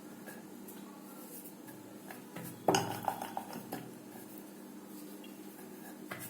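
Kitchen utensils clattering: a short run of hard knocks and clinks about two and a half seconds in, with a few lighter taps before it, over a quiet steady background.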